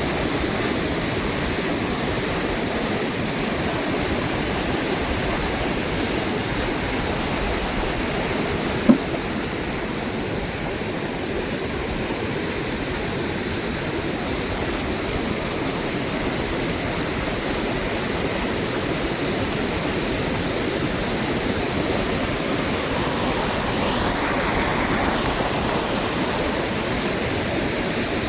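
Fast-flowing river water rushing steadily. A single short click about nine seconds in.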